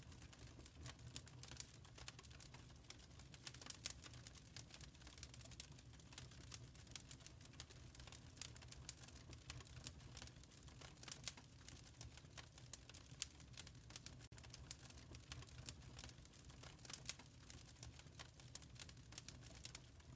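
Wood fire crackling in a fireplace: a steady patter of small, irregular crackles and pops over a faint low rumble of the flames.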